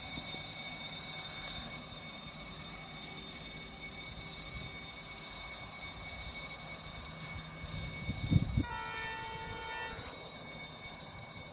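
Train rumbling steadily, then a brief thump about eight seconds in, followed by one blast of a D19E diesel locomotive's horn lasting about a second and a half.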